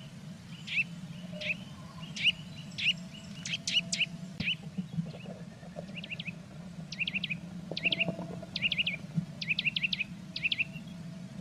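A small bird chirping in short, sharp notes, often in quick twos and threes, more closely packed in the second half. A steady low hum runs underneath.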